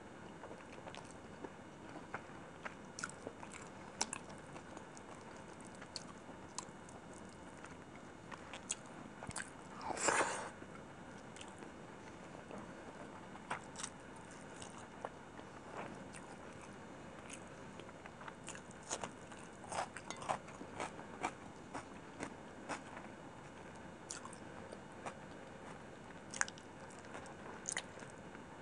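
Close-up mouth sounds of eating chicken biryani by hand: chewing and lip smacking with many short wet clicks. One louder, longer mouth sound comes about ten seconds in.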